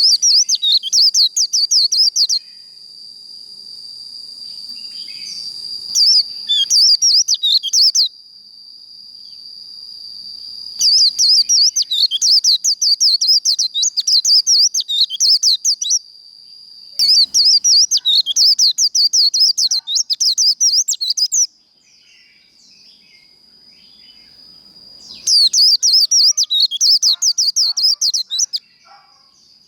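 White-eye singing its rapid, jittery high 'líu' twitter in repeated bursts of a few seconds each, about five in all with short pauses between. A steady high thin tone runs underneath throughout.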